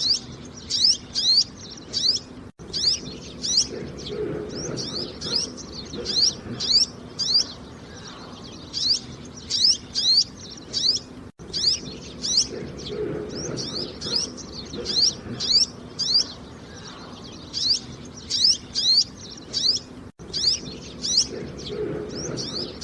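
Small songbird chirping repeatedly: short, high, downward-sweeping notes, several a second, in bouts. A lower, cooing-like call returns about every nine seconds, and there are brief dropouts where the recording loops.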